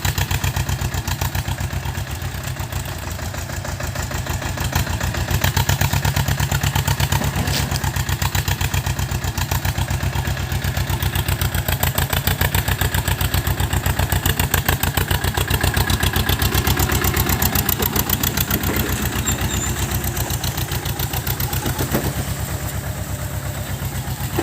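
Mini tractor's engine running steadily under load while pulling a seed drill, with a fast, even engine beat that is a little louder in the middle of the stretch.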